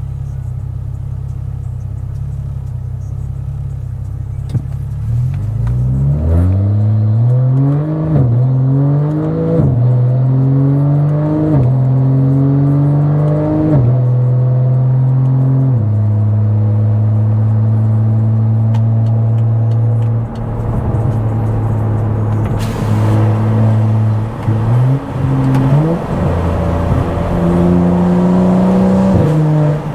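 Stage 2+ tuned BMW F10 535i's turbocharged inline-six through a very loud exhaust: running low and steady for about five seconds, then accelerating hard with the pitch climbing and dropping back at four quick upshifts. It then holds a steady cruise for several seconds, followed by a few short revs and a final climb that drops off near the end.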